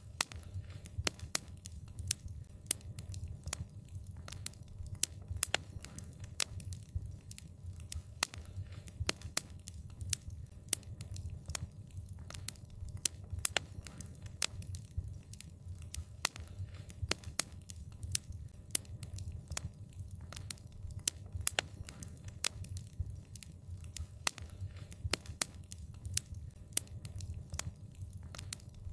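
Wood fire crackling: irregular sharp pops and snaps, several a second, over a low steady rumble of the burning.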